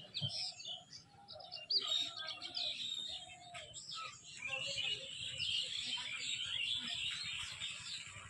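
Small birds chirping: many quick, overlapping high calls that grow denser about halfway through.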